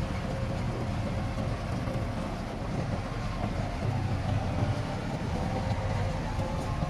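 Heavy diesel earthmoving machinery running steadily: a low engine rumble with a faint steady whine above it.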